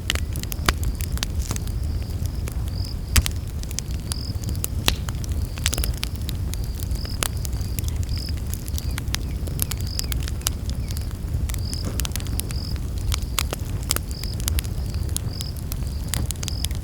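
Wood campfire crackling and popping with sharp snaps over a steady low rumble of flames. A high-pitched insect chirps about once a second throughout.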